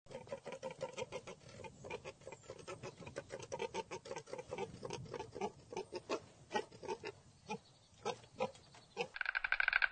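An animal making a quick series of short calls, several a second. About nine seconds in, a louder, faster ticking rattle cuts in.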